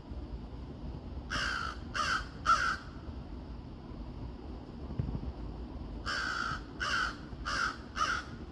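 Crow cawing: a run of three harsh caws about a second in, then after a pause a run of four more.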